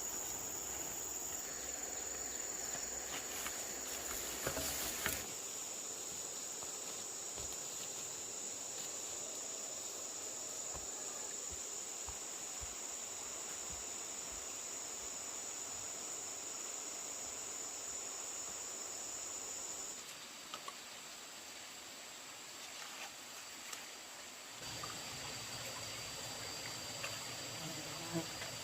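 Steady high-pitched drone of forest insects, with a few faint knocks now and then.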